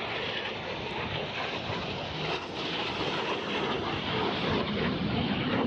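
Fixed-wing aircraft engine roar as a plane flies over, steady and growing slightly louder toward the end.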